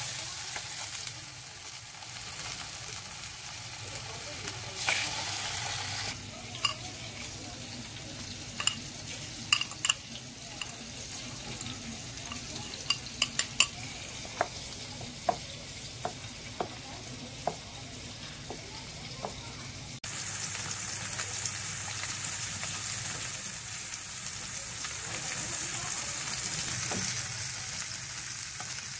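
Tuna slices sizzling in hot oil in a nonstick frying pan. About six seconds in, the sizzle gives way to a wooden spatula stirring mashed potatoes in milk, with a run of sharp knocks against the pan. At about twenty seconds the sizzle of the frying tuna comes back, louder and steady.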